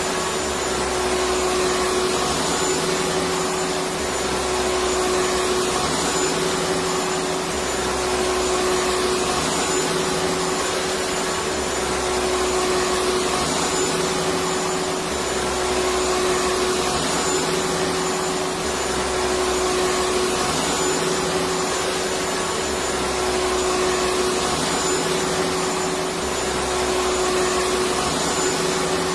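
Electric vacuum cleaner running steadily: an even rushing hiss with a constant mid-pitched whine, and a low hum that swells and fades about every two seconds.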